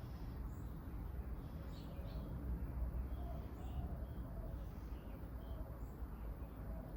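Small birds chirping, with short high chirps scattered throughout, over a steady low background rumble.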